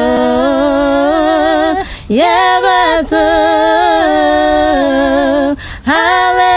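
Two voices singing a cappella in harmony, holding long notes with vibrato. The singing breaks briefly for breaths about two seconds in and near the end.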